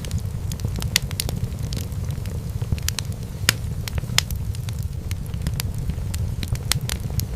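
Wood fire burning in a fireplace: a steady low rumble with sharp, irregular crackles and pops, the loudest about three and a half seconds in.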